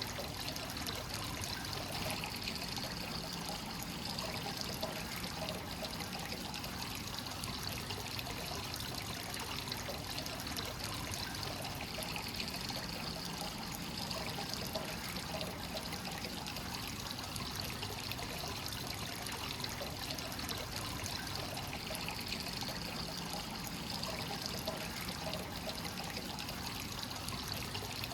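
Hot spring source water pouring and trickling steadily into a bath. The splashing swells slightly about every ten seconds.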